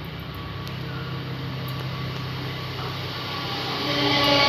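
Red S-Bahn electric multiple unit approaching along the track, its noise growing steadily louder and swelling sharply near the end as it nears, with a humming tone joining in.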